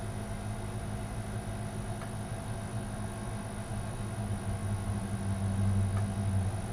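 A steady low hum with a couple of faint small clicks, about 2 and 6 seconds in.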